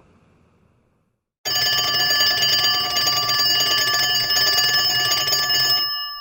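A bell ringing nonstop with a rapid, rattling run of strikes, like an old telephone or electric alarm bell. It starts suddenly about a second and a half in, rings for about four and a half seconds, then stops, and its tones ring on and fade.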